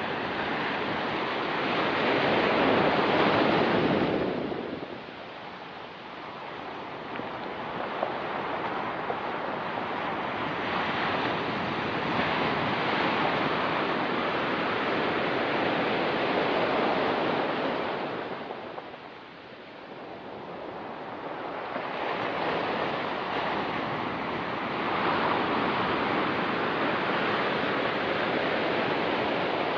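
Ocean waves washing onto a rocky pebble beach, the surf noise swelling and ebbing in slow surges, with dips about five seconds in and again just before twenty seconds.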